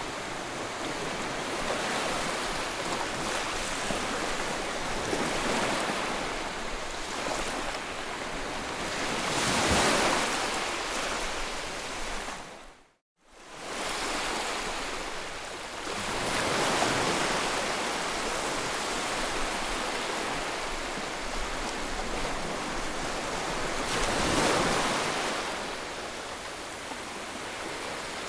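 Ocean waves breaking and washing on a shore, a steady rush of surf that swells with a new wave about every seven seconds. About halfway through the sound fades quickly to silence for a moment and comes straight back.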